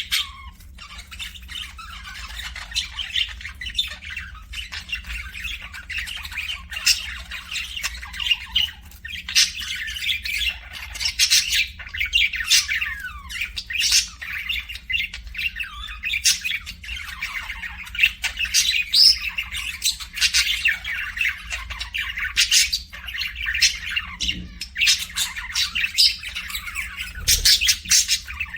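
A group of small pet parrots chattering nonstop, with frequent sharp squawks throughout.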